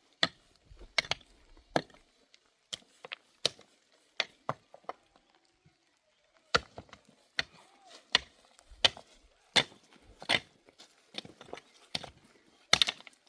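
Repeated sharp knocks, about one every three-quarters of a second, with a short pause about halfway through.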